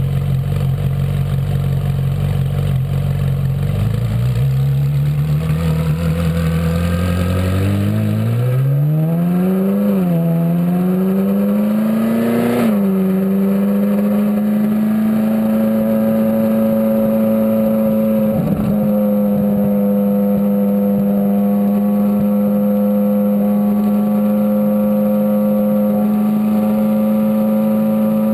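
Twin-turbocharged Ferrari 458 Spider's V8 accelerating, its pitch climbing in steps through the gears for about the first twelve seconds, then holding a steady high-speed drone, with one brief break about eighteen seconds in.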